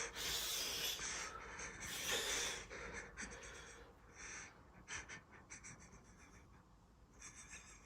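A person breathing hard through mouth and nose, several quick hissing breaths in the first three seconds, the kind of panting that follows a mouthful of hot chili. Fainter small clicks and crackles follow.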